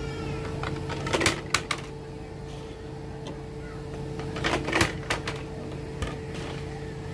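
Sharp clicking and clattering of hard objects knocking together, in short clusters about a second in and again around four to five seconds, over a steady low hum.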